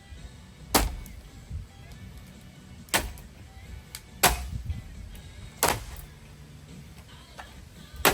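A ceiling fan being struck hard, five loud blows one to two seconds apart, each with a short metallic ring.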